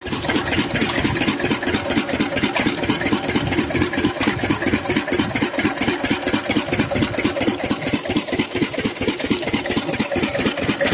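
Diesel engine driving an irrigation water pump, running steadily with a fast, even chugging beat.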